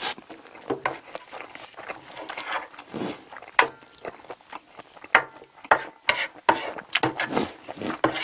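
Close-miked eating sounds: a spoon clicking and scraping against the dish at irregular moments, between short wet bursts of chewing on stir-fried octopus and rice.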